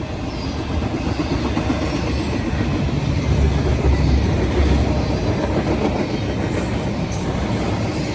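A train rolling past, its wheels clicking over the rail joints, with a low rumble that builds to its loudest about halfway through and then eases slightly.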